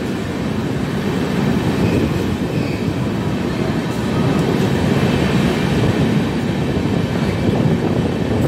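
Express passenger train's coaches running along the track, heard from an open coach door: a steady rumble of wheels on the rails.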